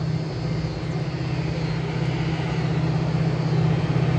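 Approaching Metra diesel commuter train: a steady low engine drone that grows gradually louder as it nears.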